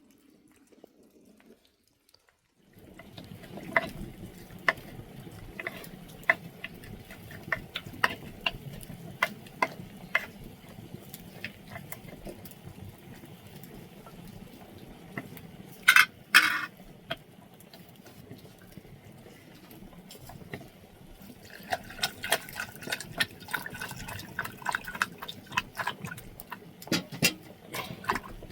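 Liquid and water sounds over a steady background, broken by many sharp clicks and knocks, starting about three seconds in. A louder clatter comes about sixteen seconds in, and the clicking grows quicker and denser near the end.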